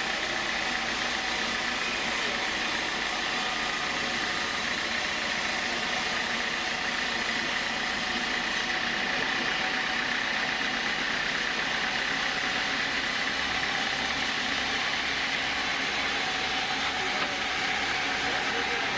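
Sawmill machinery running steadily: a continuous mechanical noise with a steady high hum, and no distinct strikes. The very highest hiss drops away about nine seconds in.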